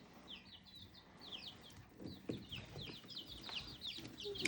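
Chicks peeping: a steady stream of short, high, falling peeps, several a second, fairly faint.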